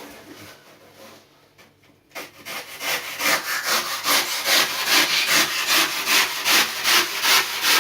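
Hand saw cutting through cured poured foam on a surfboard repair, starting about two seconds in with steady back-and-forth strokes, roughly two a second.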